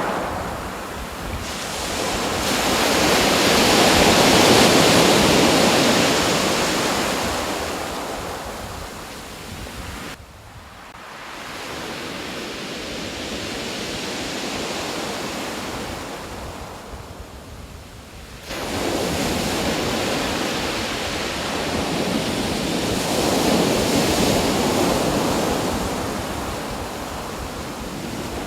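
Steady rushing noise of outdoor nature ambience, slowly swelling and easing, with sudden changes in level about ten and eighteen seconds in.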